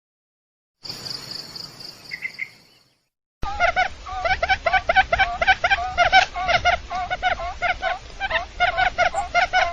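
Recorded lure calls of the rice-field quail (puyuh sawah). A high, even trill with a few brief chirps runs for about two seconds. Then, from about three and a half seconds in, comes a fast, unbroken run of repeated chirping notes, several a second.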